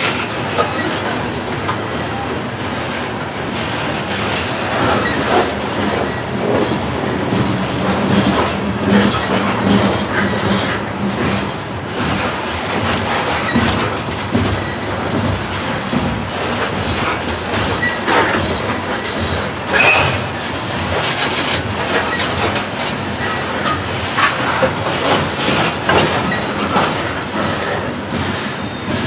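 Loaded open-top coal cars rolling past close by, steel wheels clacking irregularly over the rails above a steady heavy rumble. A brief high squeal comes about twenty seconds in.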